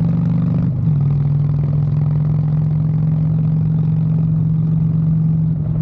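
Harley-Davidson V-twin motorcycle engine running steadily while riding on the road. Its pitch and level dip briefly about a second in, then hold steady.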